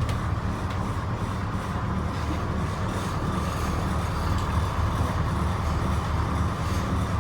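Twin inboard engines of a 1968 motor yacht, port and starboard both idling together: a steady, loud low rumble with a steady higher hum above it.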